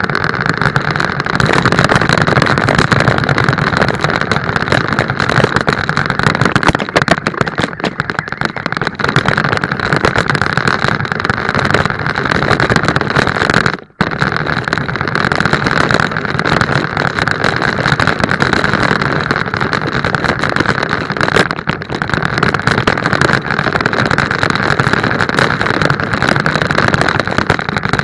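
A car's motor running steadily and loudly, with a dense, rushing noise, which cuts out abruptly for a moment about halfway through and then carries on.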